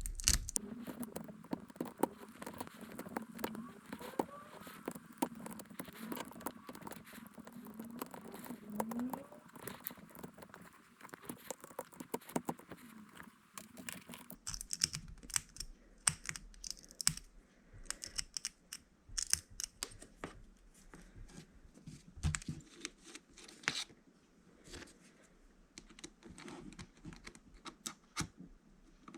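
Many light, irregular clicks and taps of small objects being handled by hand, with a faint wavering hum through the first third.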